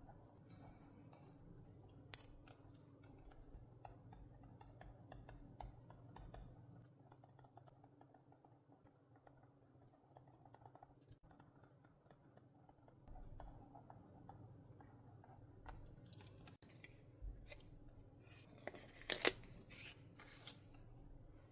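Scissors cutting paper, quiet snips and rustles of paper being handled, with a few louder sharp clicks near the end.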